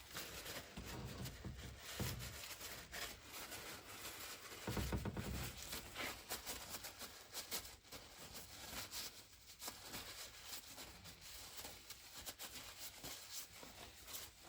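Faint workshop handling: paper towel rubbing as it wipes grease off a grease-gun cartridge, with scattered light clicks and a couple of soft knocks.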